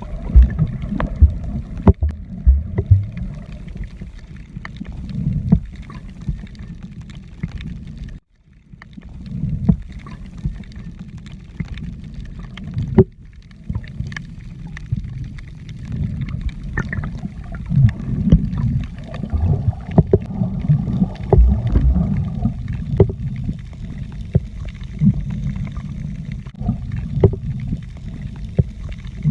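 Muffled water sound heard from a camera underwater: a low sloshing rumble with scattered knocks and clicks, cut off briefly twice.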